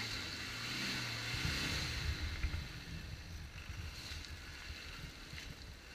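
Land Rover Discovery's engine working as it drives slowly through deep mud ruts, its note rising a little and loudest in the first two seconds, then settling back under a low rumble of wind on the microphone.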